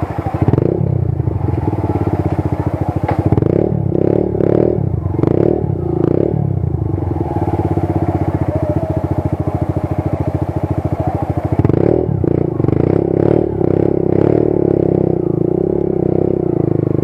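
Motorcycle engine running while riding, with two spells of short louder surges: one in the first few seconds and another about three-quarters through.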